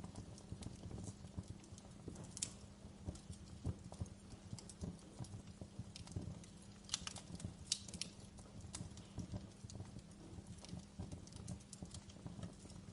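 Wood fire crackling: a dense, irregular run of small pops and snaps over a low steady rumble, with a few sharper snaps standing out.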